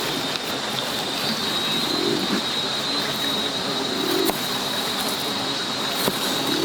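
A dove cooing, a short low coo about every two seconds, over a steady high-pitched whine and a few faint clicks.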